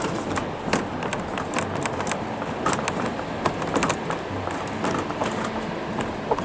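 Passenger train car rolling along the track: irregular clicks and clacks from the wheels and car over a steady running rumble.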